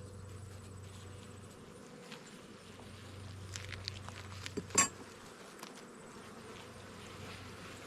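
Honeybees buzzing steadily around an open hive. From about halfway through there are a few clicks and one sharp knock just under five seconds in, as the hive frames are worked loose.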